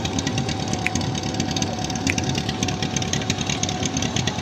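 Engine running steadily with a fast, even clatter and a steady hum.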